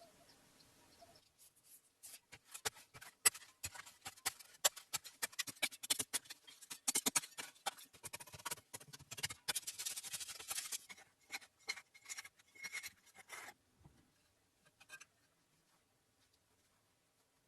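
Rapid, irregular scratching and scraping strokes, starting about a second in and stopping about two-thirds of the way through, with only a few faint clicks after.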